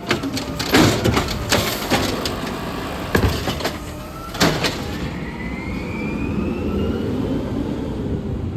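Garbage truck at work: a string of sharp metal clanks and bangs over the running engine, then from about halfway a slowly rising whine.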